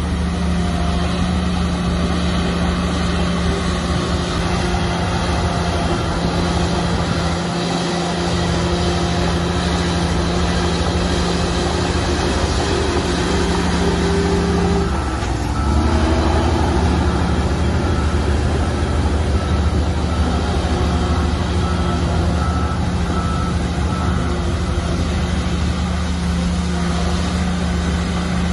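Heavy earthmoving diesel engine running steadily under work. About halfway through, its pitch dips sharply for a moment, then climbs back to the same steady level.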